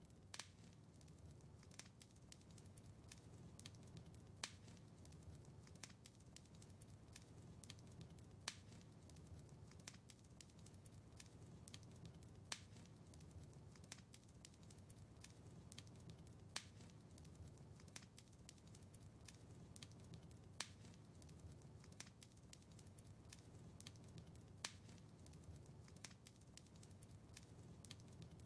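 Faint crackling wood fire: a steady low rumble of the flames with many small snapping clicks, and a sharper pop about every four seconds.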